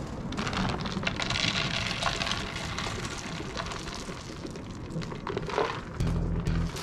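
Rain pattering steadily, a fine hiss with many small ticks. About six seconds in, the deep, regular beat of a music track starts.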